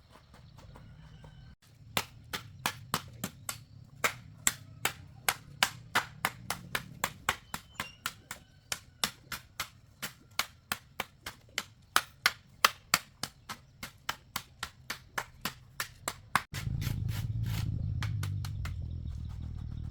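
A hammer striking over and over at a steady pace, about three blows a second, with a low hum underneath. Near the end the blows give way to a louder low rumble.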